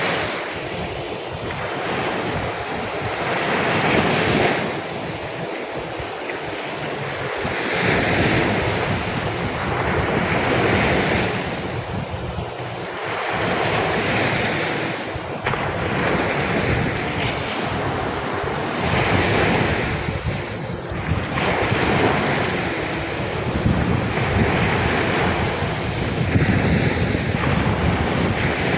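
Rough surf breaking on a beach as a storm comes in, the waves swelling and fading every few seconds, with wind buffeting the microphone.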